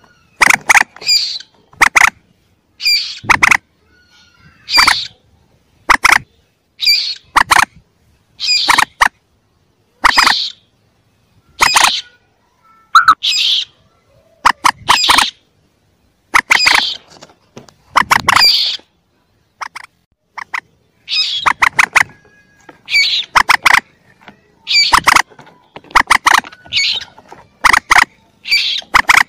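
Young common moorhen calling: short clusters of sharp, squeaky clicks repeated about once a second, with a longer gap about two-thirds of the way through. This is a recording played as a lure to call in moorhens.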